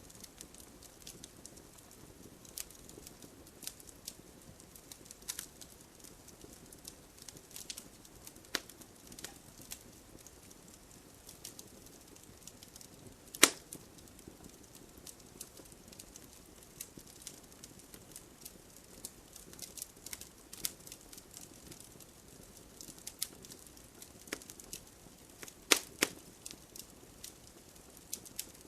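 Wood fire burning in a fireplace: a low hiss with irregular crackles and sharp pops, the loudest pop about halfway through and two more close together near the end.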